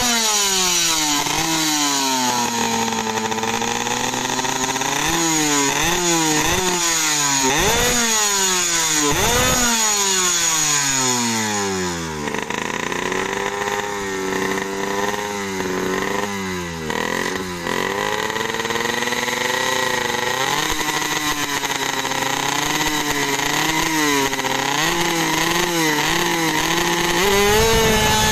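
A 120cc two-stroke drag bike engine being revved in repeated sharp blips, its pitch shooting up and falling back again and again. About halfway through it settles to lower revs with small blips, then climbs again near the end.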